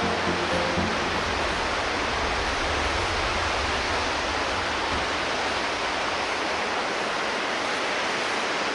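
Steady rushing noise, like falling water or wind on a microphone, with a low rumble under it for the first few seconds that then fades.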